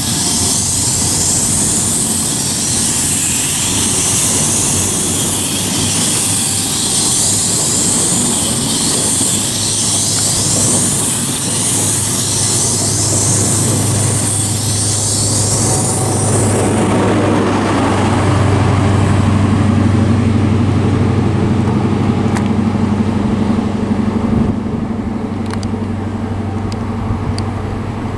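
Passenger train passing through a station at speed, with a loud rushing of wheels on rail and air. About two-thirds of the way through this gives way to a steady low engine hum, which eases off near the end.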